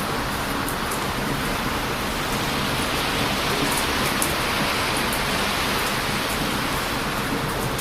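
Heavy surf and strong wind make a steady, loud rushing roar. Over it come a few faint, scattered crackling pops from a wood bonfire.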